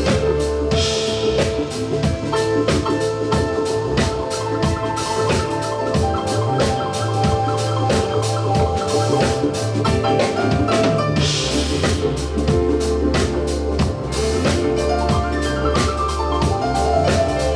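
Live band playing an instrumental passage: a drum kit keeps a steady beat under a bass line and sustained melodic tones, with a bright cymbal swell about a second in and again near eleven seconds.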